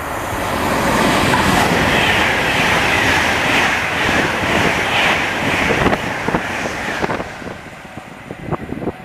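Train passing through the station at speed. A rushing rumble builds about a second in and holds, then fades, with a run of wheel clicks over rail joints near the end.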